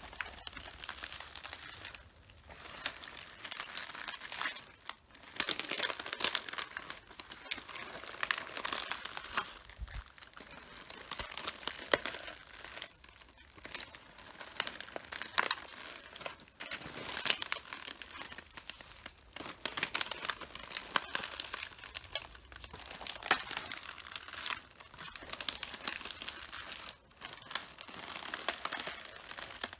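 Red cabbage leaves being crushed and torn underfoot: crisp crunching and crackling that comes in irregular surges a second or two long, with short pauses between steps.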